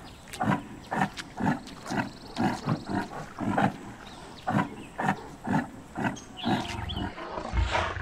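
Highland cow pawing and rooting at bare earth with its hoof and head, giving a steady run of short, rough sounds about two a second.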